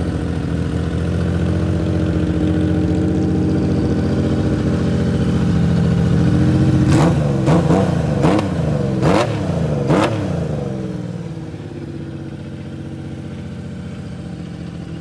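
Honda CBX1000's air-cooled inline-six engine running on the fuel left in its carburettors with the fuel valve shut off, so the carbs are emptied for winter storage. It runs steadily, is blipped about five times in quick succession midway through, then settles back to a quieter idle.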